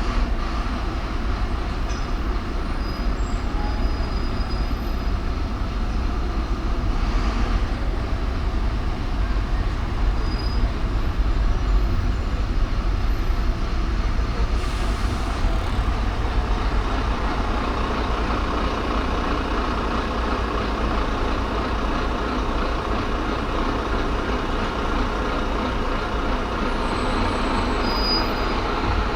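Steady road and traffic noise from a car driving through city streets, with a constant low rumble.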